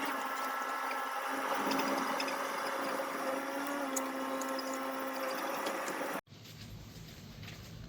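A small electric motor runs with a steady buzzing whine made of a few held pitches. About six seconds in it cuts off abruptly and gives way to a quieter low rumble.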